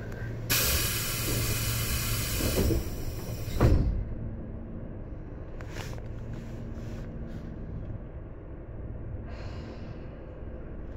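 Inside a Tobu 10030 series electric train car: a steady low hum, then a hiss of air for about two seconds, followed by a single heavy thump just under four seconds in.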